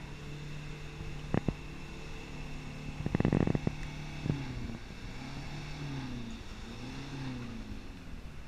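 A vehicle engine running with a steady hum, two sharp knocks, a short loud rattling burst about three seconds in, then the engine note rising and falling several times.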